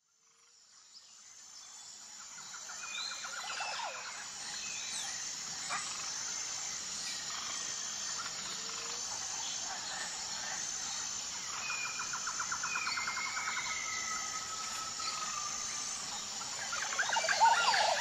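Natural outdoor ambience fading in over the first few seconds: a steady high insect chorus pulsing evenly, with birds calling over it in trills and sliding whistles. Near the end there is a louder cluster of quick bird calls.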